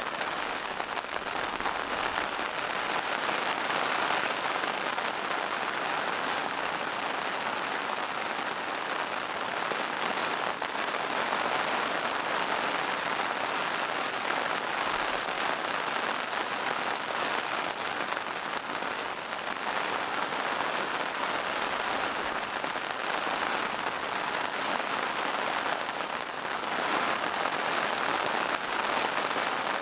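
Steady rain falling on forest foliage and moss-covered rocks, an even hiss with many small drops pattering.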